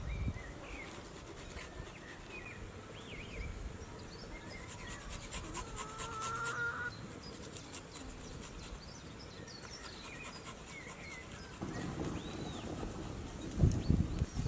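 Small birds chirping on and off over steady outdoor background noise, with one longer wavering call about six seconds in. Near the end come a few dull low knocks, the loudest sounds here.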